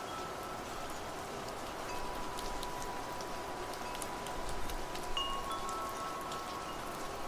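Wind chimes ringing softly over steady rain. A few long chime tones: one is struck about two seconds in and another about five seconds in. Scattered drips tick through the rain.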